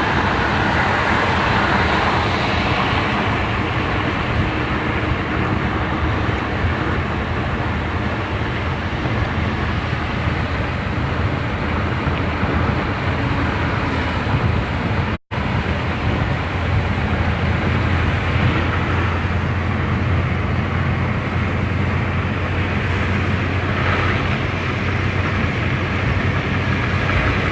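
Steady road noise and low engine hum of a car driving at speed, with a very brief dropout about halfway through.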